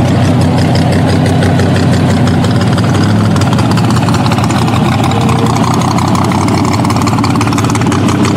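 A car engine idling loudly and steadily close by, its exhaust pulsing evenly; the note shifts slightly a little over three seconds in.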